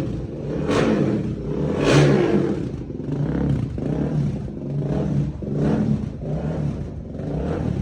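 Suzuki DR-Z400 single-cylinder four-stroke running through an MRD aftermarket exhaust, revved in short throttle blips about once a second. The blips are strongest in the first two seconds and lighter after that. The engine is being warmed up until it stabilises before a dyno run and a jetting check.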